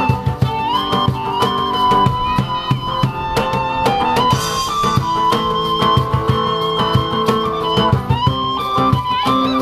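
Live band playing an instrumental piece: a drum kit beating a dense, steady pattern under a held melody line that slides between notes, with guitar.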